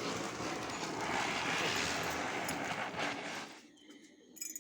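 Ground spinner firecracker (chakri) spinning and spraying sparks with a steady hiss, which dies away about three and a half seconds in.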